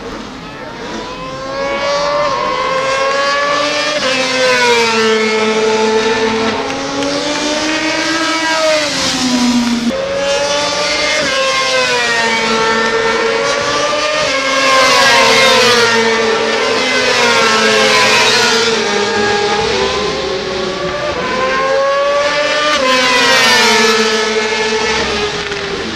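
Racing motorcycle engines running at high revs on a circuit, their pitch climbing and dropping over and over.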